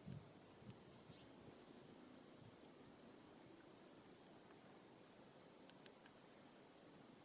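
A bird calling faintly: a short, high, slightly falling note repeated steadily about once a second. A few soft low thumps come right at the start.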